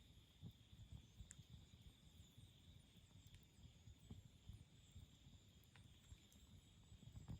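Wood campfire burning quietly, with a low fluttering rumble and a few sharp crackles and pops from the burning wood.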